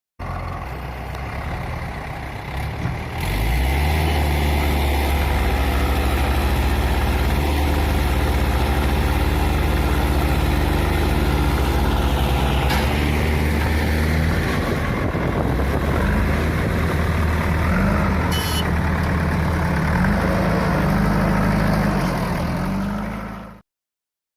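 Heavy diesel engine running hard under load, getting louder about three and a half seconds in. In the last several seconds its pitch rises and falls as it is revved, with a brief high squeal about eighteen seconds in. The sound cuts off suddenly near the end.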